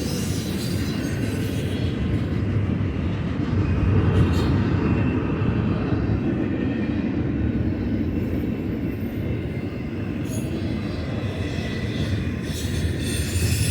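Freight train rolling past, a steady low rumble of cars on the rails.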